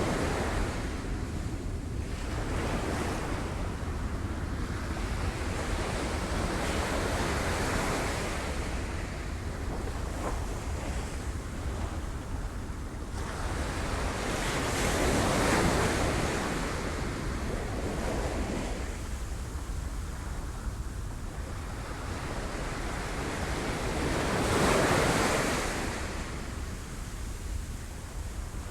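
Sea waves breaking on rocks: a continuous wash of surf that swells and falls back, with the two biggest breakers about halfway through and near the end, over a steady low rumble.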